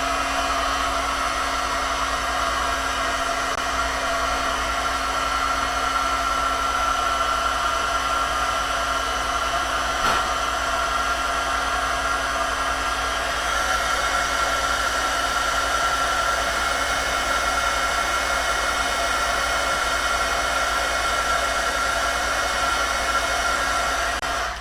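Craft heat tool (embossing heat gun) running with a steady fan whir and a steady whine, switched off near the end.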